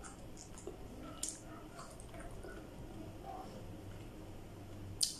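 Close mouth sounds of a person eating okra pods: soft wet chewing and squishing, with two short sharp smacks, about a second in and near the end.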